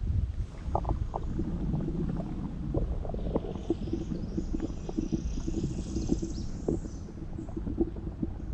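Small knocks and water sloshing around a kayak, over a steady low rumble of wind on the microphone. For a few seconds in the middle a faint high-pitched sound joins in.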